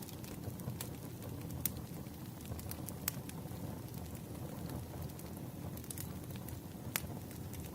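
Wood fire crackling: scattered sharp pops and snaps over a low, steady rumble, with a few louder pops standing out.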